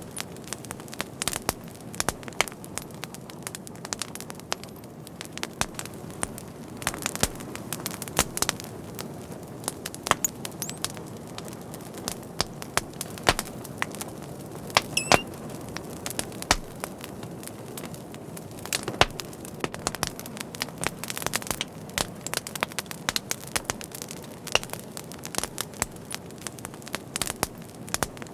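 Wood fire burning with a steady low hiss and frequent irregular crackles and pops, a few of them louder.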